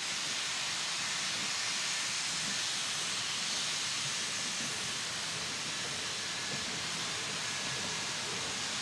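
Steady hiss as a train of wooden-log-loaded skeleton log cars rolls slowly past, with no clear rail clicks.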